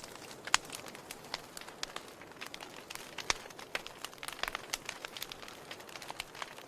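Wood fire burning in a fireplace: irregular sharp crackles and pops over a soft steady hiss, with louder pops about half a second in and around three seconds in.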